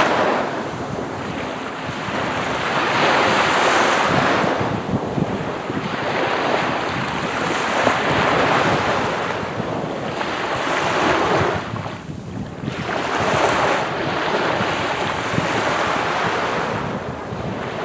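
Sea waves breaking and washing up on a sandy beach, swelling and ebbing every few seconds, with wind buffeting the microphone.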